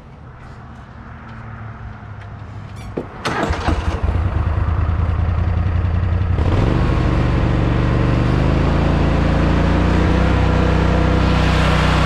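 Twin-cylinder Kohler mower engine, fitted with two new ignition coils, catching about three seconds in and then running steadily. Its speed steps up about six seconds in.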